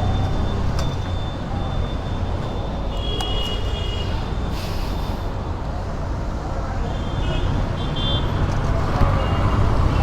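Steady road and wind rumble from riding a motorcycle through city traffic, with short high horn toots from the traffic about three seconds in and again near eight seconds.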